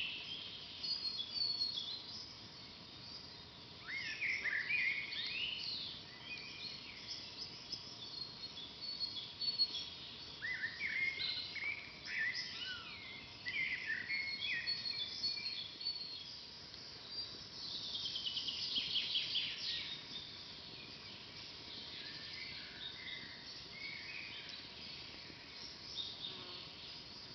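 Forest songbirds singing: short high chirping phrases every few seconds, with a rapid trill of repeated falling notes about two-thirds of the way through.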